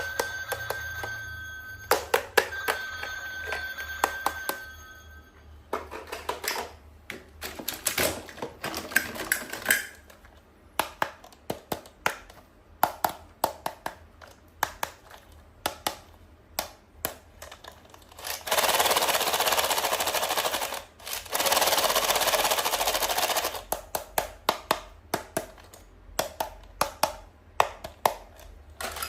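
Toys and their packaging being unboxed and handled: a steady high electronic tone with clicks for the first five seconds, then many sharp plastic clicks and taps, and two long rustling hisses of about two seconds each about two-thirds of the way through.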